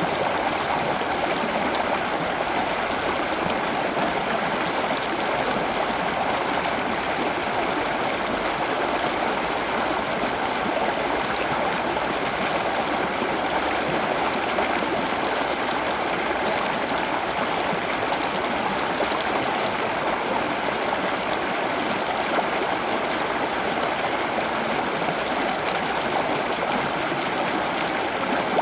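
Steady running water, an even unbroken rush.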